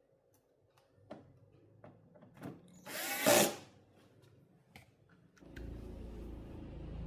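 Handheld power screwdriver running in one short burst about three seconds in, between scattered sharp clicks of handling. From about five and a half seconds a steady low hum sets in.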